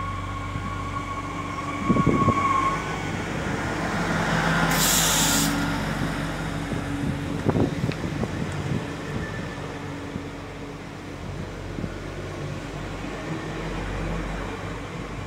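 Regional passenger train rolling past close by at the platform with a steady rumble, a thin squeal in the first few seconds, a sharp hiss of air about five seconds in, and two heavy knocks, near two and seven and a half seconds.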